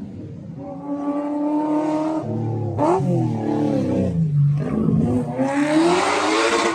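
Car engines revving on a race track, pitch climbing and falling with acceleration and gear changes. Near the end a car accelerates hard past, rising in pitch with a loud rush.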